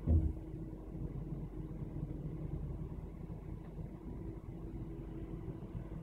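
Car engine idling, heard from inside the cabin as a steady low rumble in slow roundabout traffic. A brief low thump comes right at the start.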